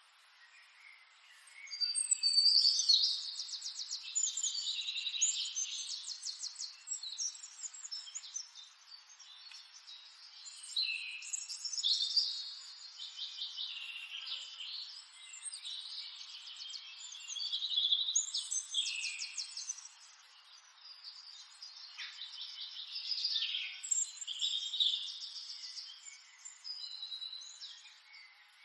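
Songbirds singing: rapid trills and chirps in overlapping bursts every few seconds, with quieter gaps between them.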